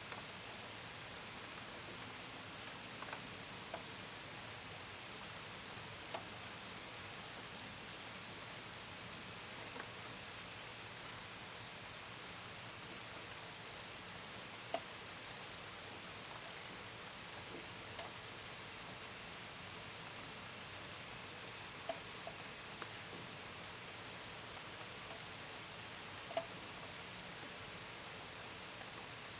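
Steady gentle rain, with scattered drips landing as sharp single ticks, the loudest about halfway through. Under it runs a continuous high chirring of crickets.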